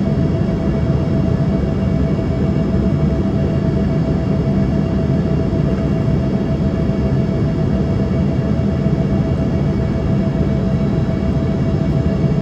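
Steady cabin noise of an Embraer ERJ-145 in flight: the drone of its rear-mounted Rolls-Royce AE 3007 turbofans and airflow, with a steady whine on top that does not change.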